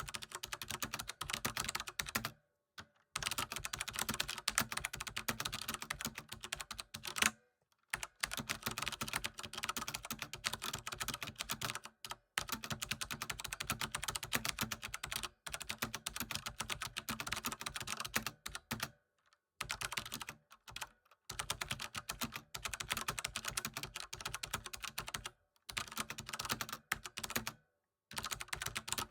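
Fast, continuous typing on a computer keyboard: dense runs of key clicks broken every few seconds by brief pauses.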